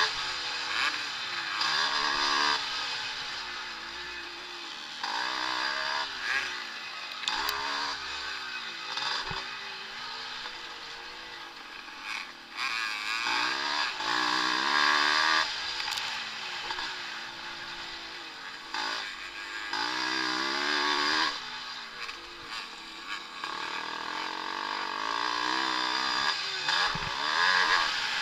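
Vintage motocross motorcycles racing, their engines revving up and dropping back again and again as they accelerate and shift, with several bikes overlapping.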